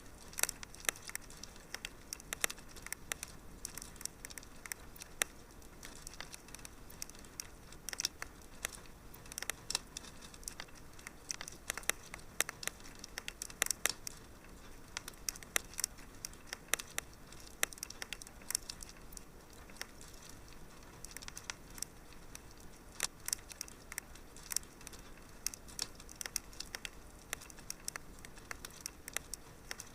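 Wood fire crackling in a fireplace: many sharp, irregular pops and snaps over a faint steady hiss.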